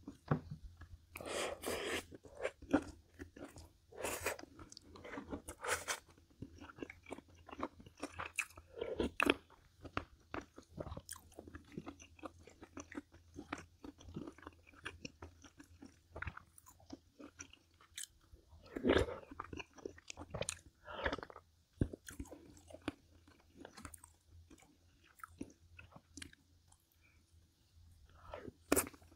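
A person chewing and biting food close to the microphone: wet, irregular chewing with crunchy bites, a few of them louder than the rest.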